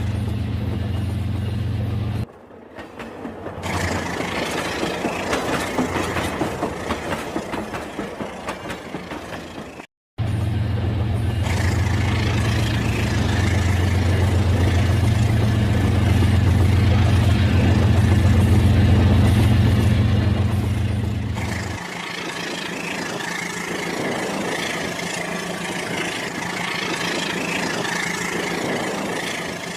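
Rail King toy train running, a steady low motor or engine hum mixed with a rhythmic rattle of running gear. The sound drops sharply about two seconds in, breaks off to silence briefly around ten seconds, and the hum stops a little after twenty seconds, leaving the rattle.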